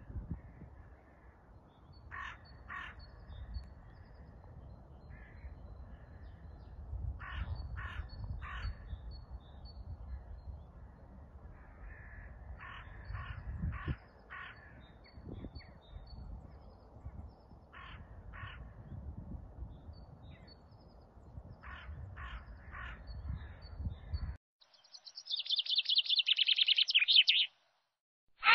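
An animal's short calls, repeated in twos and threes, over a low rumble. About 24 seconds in the recording cuts to a brief loud burst of rapid, high chirping.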